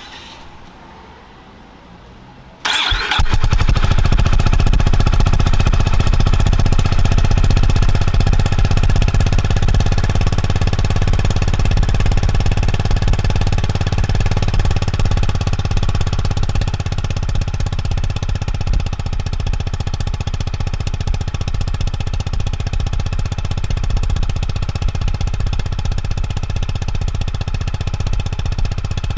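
Honda GB350S's air-cooled single-cylinder engine starting about two and a half seconds in, catching at once, then idling steadily through its stock muffler, easing slightly in loudness about halfway through.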